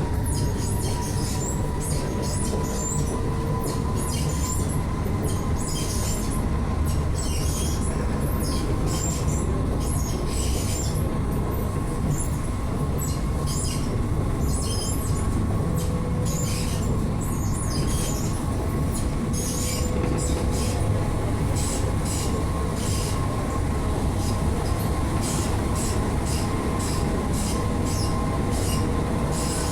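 Inside an Alstom NS-16 metro car running between stations. A steady low rumble and a steady whine run throughout, with frequent short, high-pitched squeals and hisses from the wheels on the rails.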